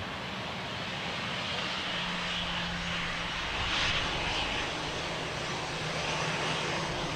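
Airbus A319 jet engines running, a steady rushing noise with a faint low hum, a little louder a few seconds in.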